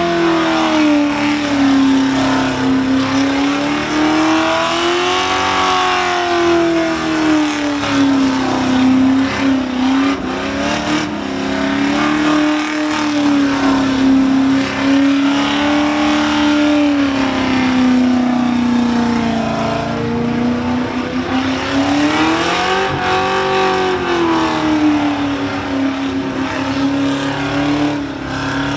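Supercharged engine of a Holden Commodore held at high revs through a long burnout, its pitch rising and falling in slow swings as the throttle is worked, with the hiss of the spinning rear tyres underneath.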